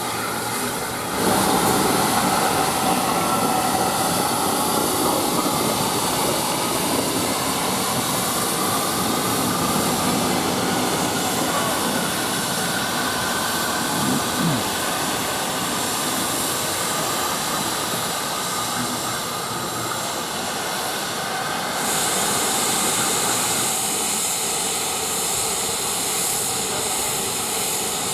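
A steam locomotive letting off steam: a loud, steady hiss that starts suddenly about a second in and gets brighter and sharper about three-quarters of the way through.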